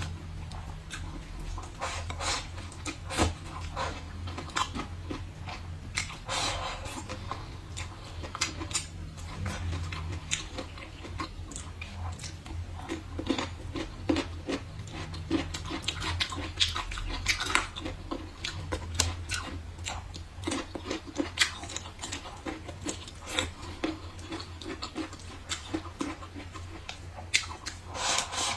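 Close-up chewing of braised bamboo shoots: an irregular run of wet, crunchy bites and mouth clicks, over a steady low hum.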